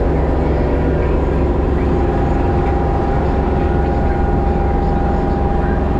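LS MT232 subcompact tractor's three-cylinder diesel engine running steadily under load while driving a brush hog (PTO rotary mower) through a field. A thin, steady high whine joins in about two seconds in.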